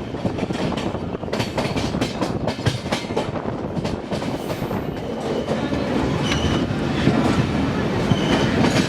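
Electric passenger train running past close by, its wheels clattering steadily over rail joints, with two brief high wheel squeals in the later part.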